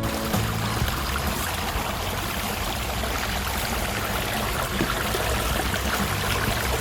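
Steady rush of running water in a stream, starting and stopping abruptly, with a low bass line of background music underneath.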